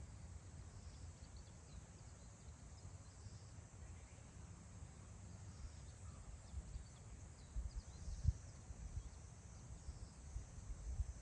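Wind blowing over open grassland, buffeting the microphone as a low rumble that gusts harder in the second half. Faint, brief bird chirps come through now and then.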